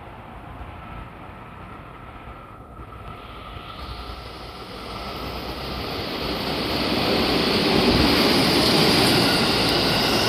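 JR Central 373 series electric train running through the station without stopping. Its rumble and wheel-on-rail noise build as it approaches from about four seconds in and are loudest near the end as the cars pass close by.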